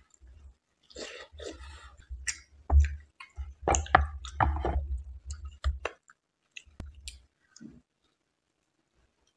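Close-miked mouth sounds of someone eating soft Indian sweets: a run of wet chewing smacks and lip clicks, thinning out after about six seconds with one sharp click near seven seconds.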